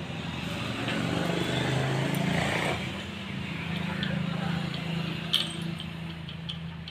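A motor vehicle engine runs with a steady low hum, swelling louder for a couple of seconds and then easing off, with a single light metallic click near the end.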